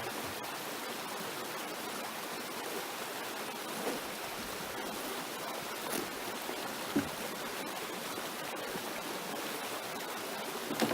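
Steady outdoor rushing noise, with a few faint knocks about four, six and seven seconds in.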